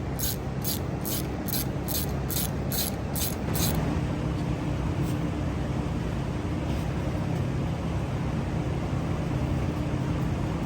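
About ten short, quick hissing bursts of spray, roughly three a second, that stop about three and a half seconds in, as the head-bolt holes of an engine block are cleaned out. A steady low machine hum runs underneath.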